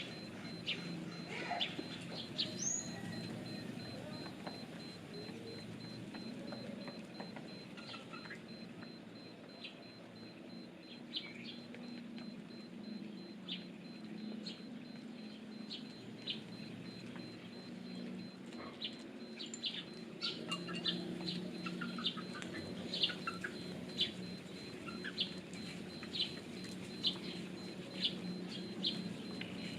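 Birds chirping: many short, high chirps scattered throughout, more frequent in the second half, over a steady low hum.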